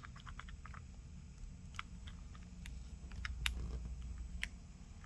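Faint, scattered light clicks and taps of a small bracket and tools being handled on an opened smartphone's internal frame, with a quick cluster of clicks in the first second.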